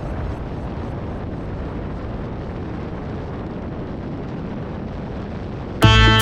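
Steady rumble and wind rush of a moving motorcycle on the microphone. Guitar music comes in suddenly near the end.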